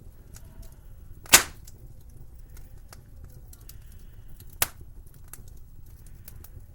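Wood fire crackling in a fireplace, with one loud sharp pop a little over a second in and a smaller pop about three seconds later, over a low steady rumble.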